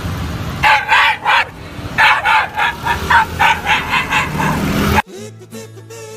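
A dog barking in quick runs of short, high barks, several per second. The barking cuts off suddenly about five seconds in, where music takes over.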